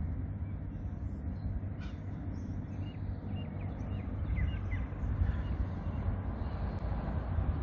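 Steady low rumble of open-air ambience on the water. A few short, high bird calls come in the middle.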